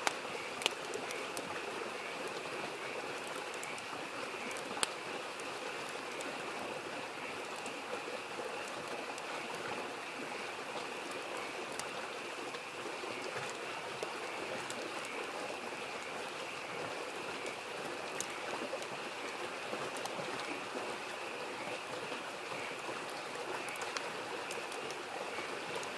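Small creek babbling steadily, with a steady chorus of frogs and a few sharp crackles and pops from a wood campfire.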